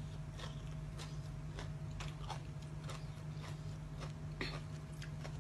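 A person chewing crunchy food close to the microphone, with crisp crunches about three a second over a steady low hum.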